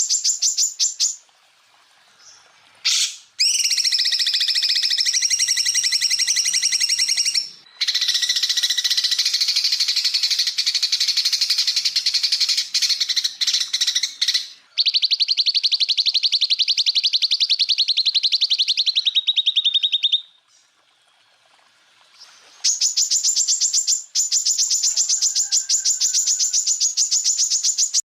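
Greater green leafbird (cucak ijo) singing long, very fast rattling trills, the rapid-fire 'tembakan' song. There are five runs of one to seven seconds each, some high and some lower, with a near-silent pause of about two seconds late on.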